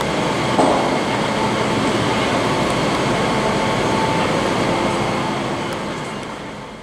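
Train running on the rails, its rumble holding steady and then fading away near the end, with a faint steady whine over it.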